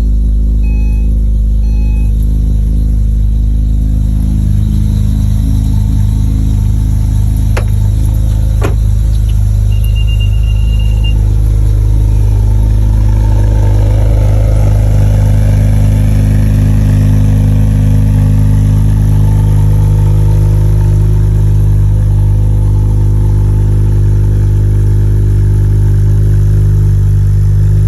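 Acura TL SH-AWD's 3.7-litre V6 idling steadily just after a cold start. A few electronic chime beeps sound at the start, two sharp clicks come about eight seconds in, and a short high beep follows soon after.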